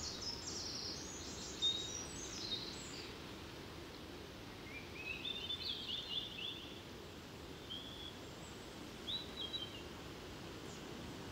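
Birds singing over a steady low background noise: quick runs of high chirps in the first three seconds, a trill around the middle, and a few short calls near the end.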